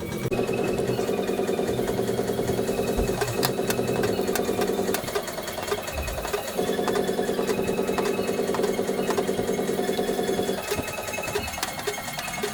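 A power tool running with a rapid, even pulsing. It stops or eases off briefly a few times.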